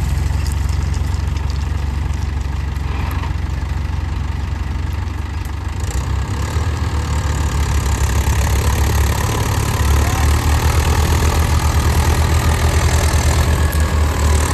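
Diesel tractor engine running steadily with a low, even pulse, growing louder and more strongly pulsed about ten seconds in.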